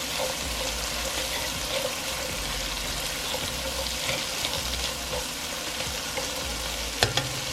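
Onions, bell peppers and minced garlic sizzling in butter in a pan, a steady frying hiss, with a sharp knock near the end.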